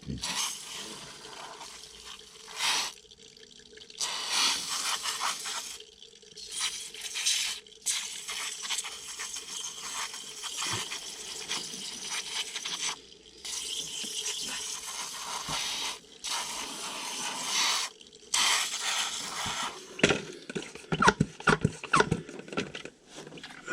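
Water spraying onto a dirty HVAC coil during cleaning, in repeated hissing bursts a few seconds long with short breaks between them. The last few seconds turn to dripping and small knocks.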